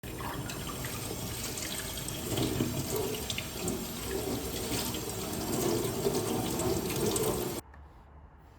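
Water running from a tap into a sink, splashing steadily, then stopping abruptly about a second before the end.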